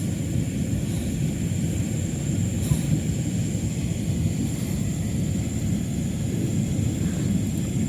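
Steady low outdoor rumble with a faint, steady high-pitched tone above it.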